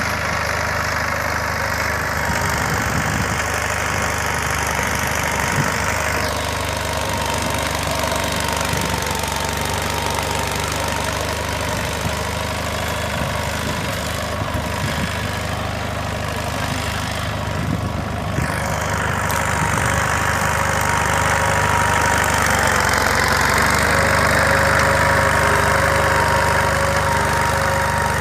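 Captain mini tractor's small diesel engine running steadily, working a reversible plough, getting louder about two-thirds of the way through.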